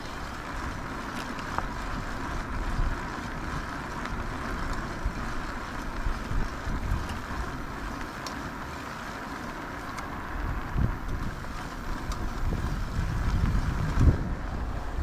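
Wind buffeting a GoPro action camera's microphone: a steady rushing hiss with uneven low rumbling gusts that grow louder near the end.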